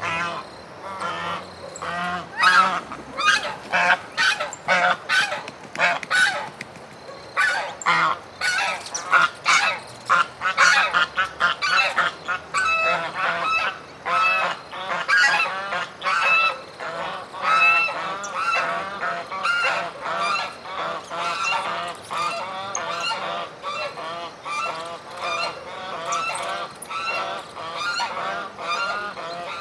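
Several birds calling together, giving many short, pitched calls in quick overlapping succession throughout.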